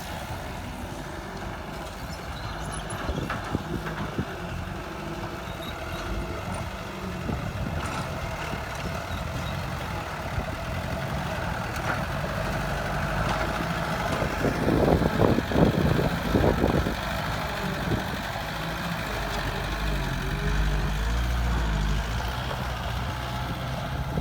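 Heavy diesel engine of construction machinery running, its pitch shifting up and down, with a cluster of loud clunks about fifteen seconds in.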